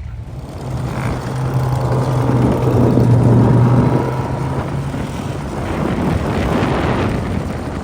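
Engine of an off-road vehicle running under power as it passes. It grows louder to a peak about three seconds in, falls away, then swells again near the end.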